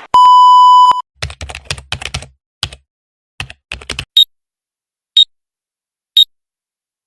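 A loud steady electronic beep lasting about a second, then a quick run of irregular clicks like keys or buttons being pressed, then short high electronic pips once a second.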